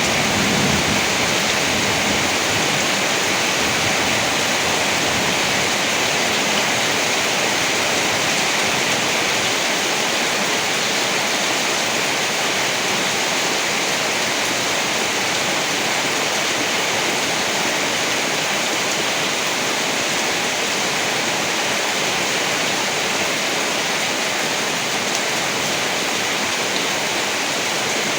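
Steady heavy rain, an even rushing hiss that does not change. A low thunder rumble dies away in the first second or so.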